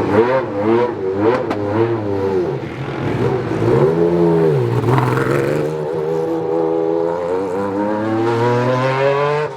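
Rally car engine revving: a few quick throttle blips, one rise and fall in pitch about four seconds in, then a slow, steady climb in pitch as it accelerates.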